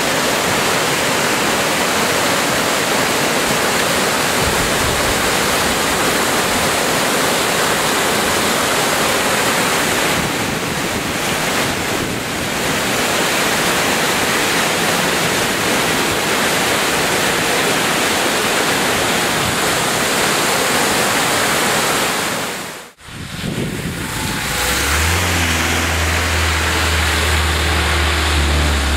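Heavy rainstorm with rushing water, a dense steady hiss. After a sudden break about 23 seconds in, the rain continues under the low hum of a car engine running.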